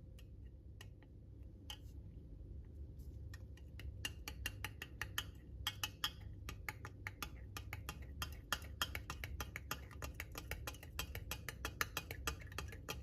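Light clinking of glassware: a few separate clinks, then from about four seconds in a rapid, continuous clinking.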